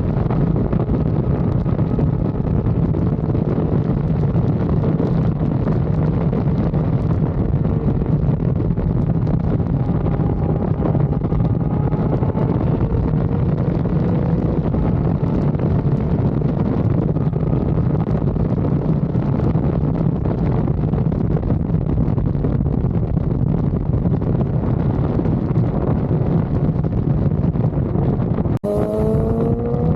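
Yamaha R6's inline-four engine running at a steady pace, its note drifting slowly up and down, with heavy wind noise on the microphone. Near the end the sound cuts out for an instant and the engine note then climbs.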